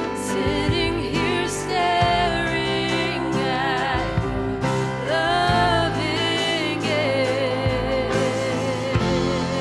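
Worship music: a voice singing held notes with vibrato over sustained instrumental chords.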